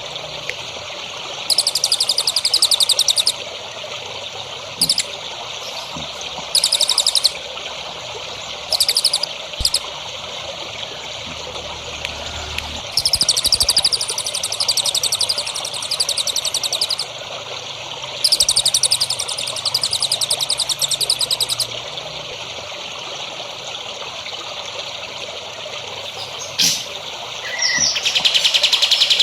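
A songbird singing in bursts of rapid, buzzy trills, each half a second to about four seconds long and repeated every few seconds, over a steady trickle of running water.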